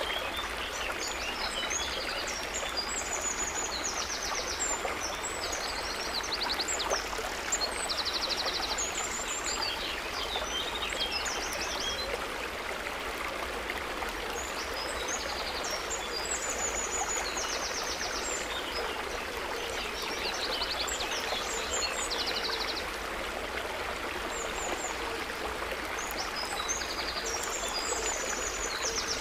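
Gently babbling, trickling water running steadily, with bursts of high, quick chirping trills that come and go in clusters over it, and a steady low rumble underneath.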